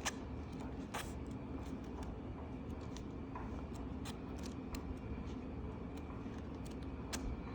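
Coloring-book pages being handled and turned: a few short, faint paper rustles and taps scattered over a steady low room hum.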